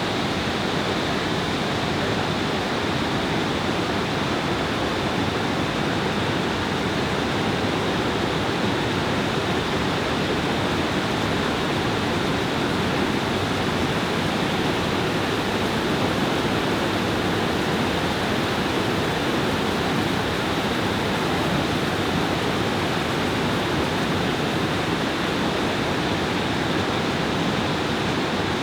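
Iguazu Falls thundering, a steady, loud rush of heavy falling water.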